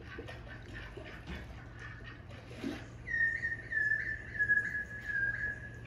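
A bird's whistled call: a run of about eight short, clear notes, roughly three a second, starting about halfway through. Each note flicks up at its end, and the run drifts slightly lower in pitch. Before it there is only faint ticking and chirping.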